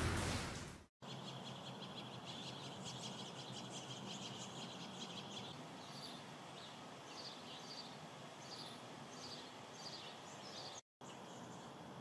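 A loud hiss fades out in the first second. Then a quiet outdoor background with small birds giving a series of short, high chirps.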